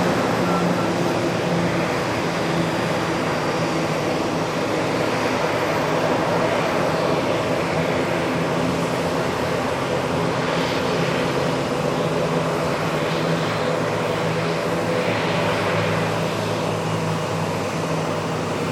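The Airbus C295M's twin Pratt & Whitney PW127G turboprop engines running steadily at low taxi power: an even propeller hum with several fixed low tones over a broad engine noise.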